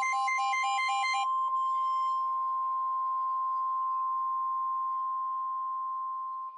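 Emergency alert tone: a steady single beep near 1 kHz, like the NOAA Weather Radio 1050 Hz warning alarm tone, sounding before the voice message. Until about a second in, a pulsing beep pattern of other tones, about three a second, plays over it, then the steady tone holds alone.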